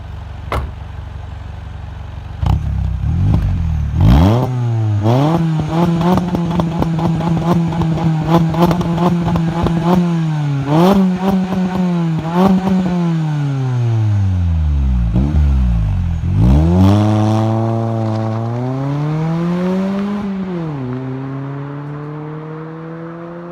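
Mini Cooper R56's non-turbo 1.6 four-cylinder engine running through a non-resonated Scorpion cat-back exhaust. It idles for a couple of seconds, is revved up and held at high revs with a rapid crackle of clicks, blipped, dropped and revved again, and the revs sink slowly near the end.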